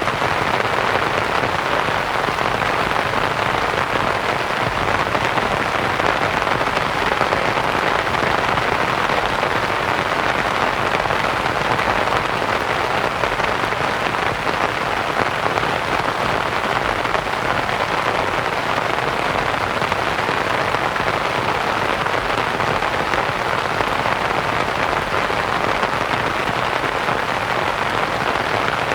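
Steady rain pattering on a canvas tent, blended with a soft white-noise hiss; an even, unchanging wash with no distinct drops or events standing out.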